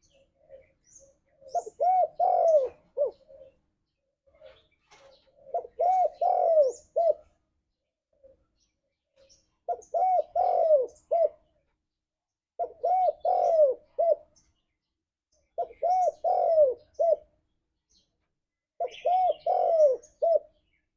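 Spotted dove (tekukur) cooing: a phrase of several low, arching coos repeated six times, about every three to four seconds. Faint high chirps of small birds sound between the phrases.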